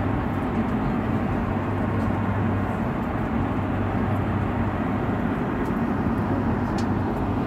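Steady drone of a jet airliner's cabin in flight: an even rush of air and engine noise with a low hum underneath, unchanging in level.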